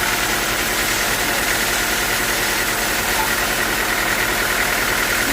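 Sawmill machinery running steadily, an even engine drone with a constant higher whine over it.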